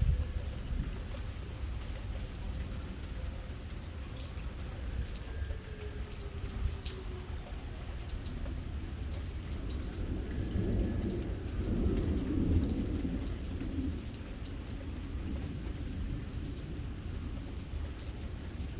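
Steady rain falling, with individual drops tapping close by, and a low rumble of thunder swelling about ten seconds in and fading a few seconds later.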